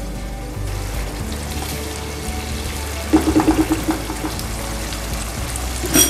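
Thick curry masala sizzling and bubbling as it fries down on high flame in a nonstick pan, stirred with a plastic spatula, with a quick run of scraping strokes about three seconds in and a sharp clink near the end. Background music plays under it.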